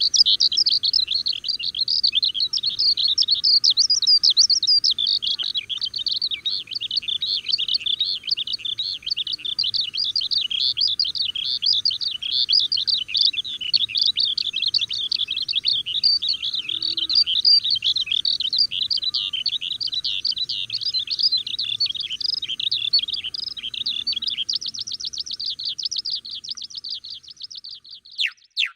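Songbirds chirping and singing in a dense, unbroken run of quick high notes, turning into a faster, even trill about four seconds before the end.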